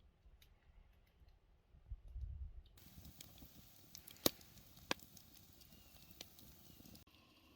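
Wood campfire crackling faintly: scattered soft ticks, then a steady hiss with a few sharp pops from about three seconds in.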